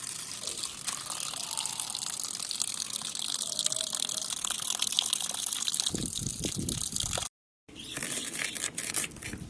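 Water running steadily, gushing as from a tap, with heavier low splashing or knocking from about six seconds in and a brief cut to silence a little after seven seconds.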